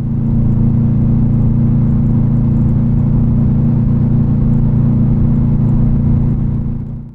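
2008 Subaru WRX STi's turbocharged 2.5-litre flat-four running at a steady engine speed through an Invidia N1 cat-back exhaust: a loud, even drone with no change in pitch. It cuts off abruptly near the end.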